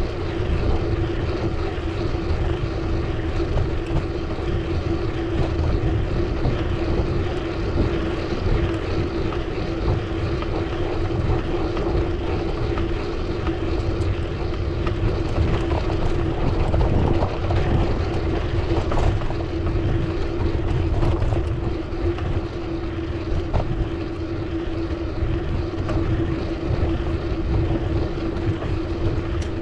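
Steady riding noise: wind rumbling on the microphone, with a constant hum held at one pitch throughout.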